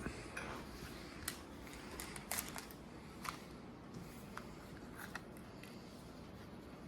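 Faint scattered clicks and crackles of Pokémon trading cards and a foil booster pack being handled.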